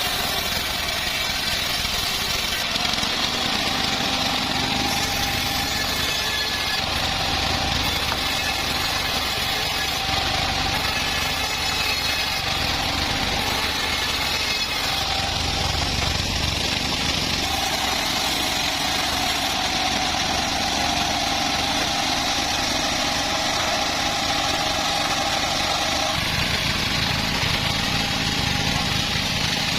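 Homemade bandsaw mill running steadily: a continuous machine drone with a mid-pitched tone that comes and goes, and the low end changing about 26 seconds in.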